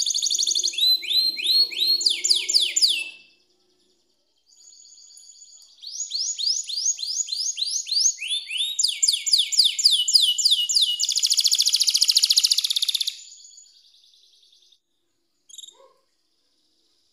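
Canary singing in fast trills of quick downward-sweeping notes. There is a short pause about three seconds in, then a long run of trills ending in a rapid rolling trill. A single brief chirp comes near the end.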